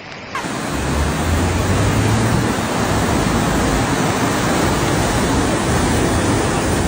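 Floodwater rushing in a fast torrent, a loud steady hiss with a low rumble underneath that is strongest in the first couple of seconds.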